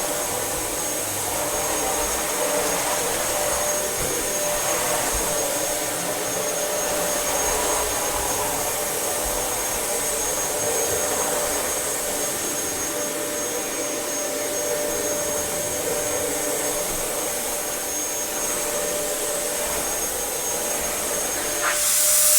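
Dyson DC07 bagless upright vacuum cleaner running steadily, its motor whine holding an even pitch; the sound swells briefly louder near the end.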